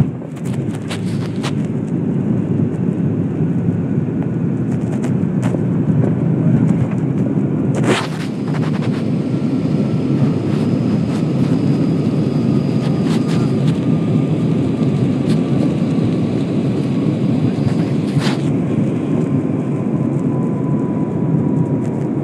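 Steady rumble of a jet airliner's cabin with the engines running, and a faint whine sliding slowly down in pitch. Two short knocks or rattles come about eight seconds in and again later.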